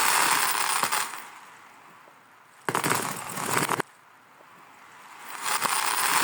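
Glass marbles rolling and clattering along a marble run track, played backwards. There are three stretches of dense rattling: one at the start, a short sharp burst in the middle, and one near the end that swells up gradually and then cuts off abruptly.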